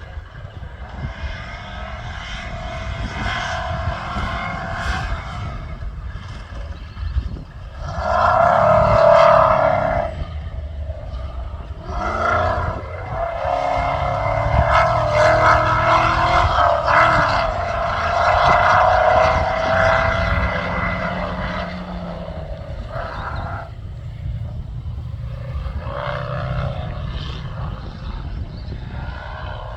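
Competition safari off-road racing vehicle's engine revving hard, its pitch rising and falling as it accelerates and lifts off, loudest from about eight seconds in, with a constant low rumble underneath.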